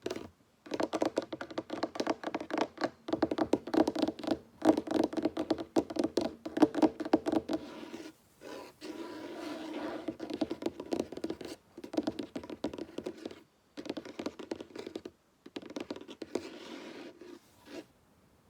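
Fingers tapping fast on a wooden table in quick runs broken by short pauses, with a steadier stretch of scratching on the wood about nine seconds in. The tapping stops shortly before the end.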